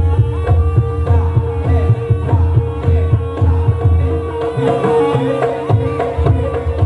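Jaranan gamelan music played live: fast, dense kendang hand-drumming with deep drum strokes under a steady held note.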